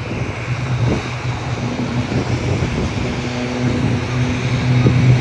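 Piston-engined aerobatic propeller aircraft flying overhead, its engine giving a steady drone that grows a little louder near the end.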